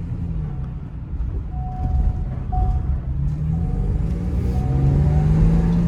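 Ford van's petrol V6 engine running while driving off. Its note dips slightly, then climbs steadily through the second half as it picks up speed.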